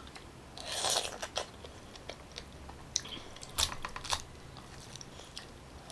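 Close-miked chewing of juicy pineapple flesh: soft wet squishing about a second in, then scattered sharp mouth clicks and smacks, the loudest a little past three and a half seconds.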